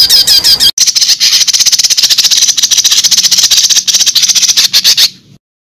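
A bird's fast, high-pitched calls: quick falling chirps at first, then a dense rattling chatter that cuts off suddenly about five seconds in.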